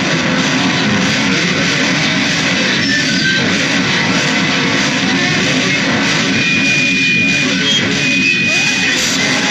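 Loud, dense distorted guitar noise music, a continuous wall of sound with thin held high tones coming in during the second half.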